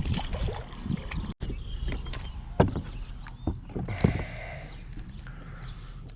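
Knocks, clatter and handling noises on a small fishing boat, with two sharper thumps, one about two and a half seconds in and another about four seconds in.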